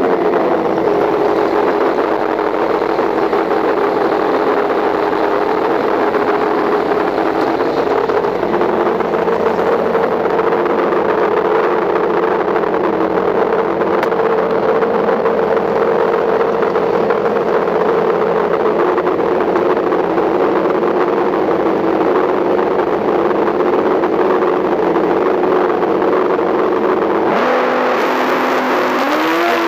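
Pro Stock drag motorcycle engine running loudly at a steady speed. Its pitch shifts a couple of seconds before the end and then begins to rise as it is revved.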